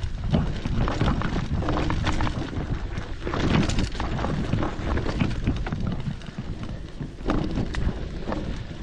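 Footsteps of a hiker walking a trail, an irregular run of scuffs and knocks, with wind rumbling on the microphone.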